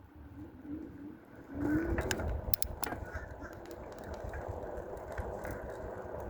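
Riding noise of a dual-motor electric bike: steady wind and tyre rumble that grows louder about a second and a half in, with a few sharp clicks soon after.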